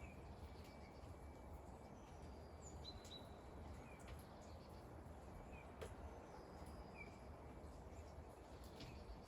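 Faint, steady patter of rain, with scattered short, high bird chirps and an occasional sharp tick.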